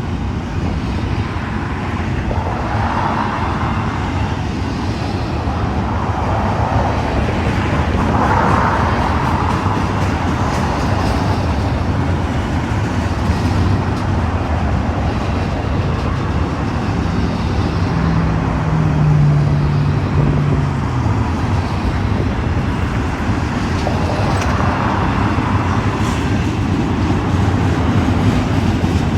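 Long intermodal freight train rolling past with a steady rumble of wheels on rail, swelling now and then. A low steady tone sounds for a few seconds past the middle, stepping slightly down in pitch.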